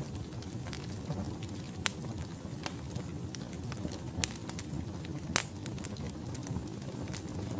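Wood logs burning in a fireplace: a steady low rumble of flames with sharp crackles and pops scattered through it, the loudest pop about five seconds in.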